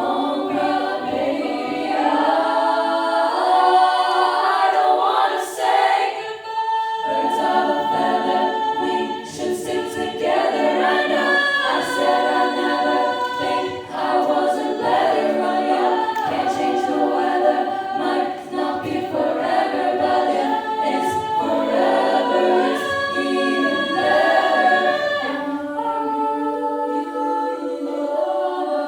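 A cappella vocal group singing in close harmony, several voices holding stacked chords with no instruments; a few short percussive clicks from the singers are heard about five to seven seconds in.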